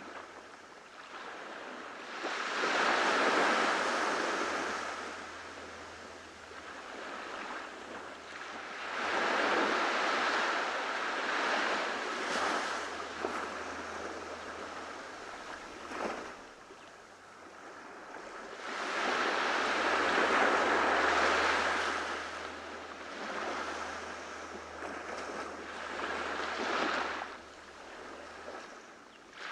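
Ocean waves breaking on a tropical beach, the surf swelling and fading four times, about every seven to ten seconds.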